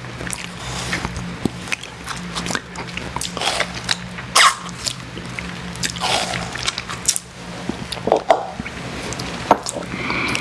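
Close-miked eating of an icy slush drink: irregular wet crunches, smacks and slurps of frozen slush in the mouth.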